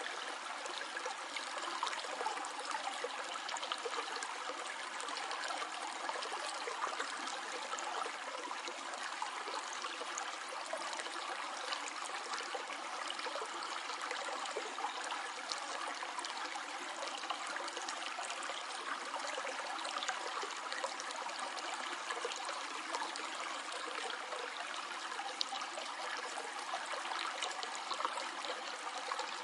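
Stream water flowing steadily over stones, an even rushing with small splashes and trickles throughout.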